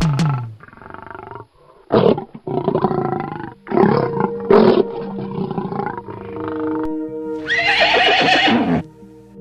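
Several animal calls with bending pitch over steady background music. Near the end a horse whinnies once, loudly, for about a second, falling in pitch.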